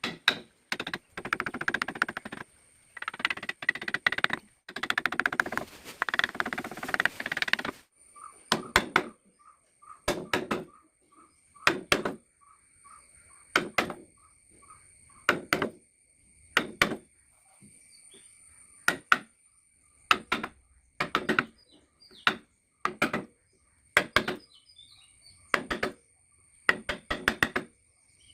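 Wood being carved with a mallet and chisel: dense runs of strikes and scraping cuts, then from about eight seconds in, single sharp knocks roughly every second and a half.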